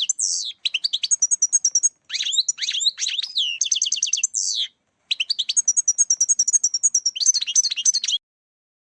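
European goldfinch singing: fast, high twittering and trilled phrases with a few short breaks, cutting off suddenly about eight seconds in.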